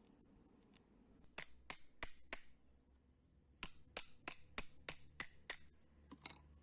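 Series of short, sharp clicks, four and then seven at about three a second, from the removed Mitsubishi FTO fuel pump being tested by tapping and connecting to a 12-volt battery. No pump motor runs: the pump is dead.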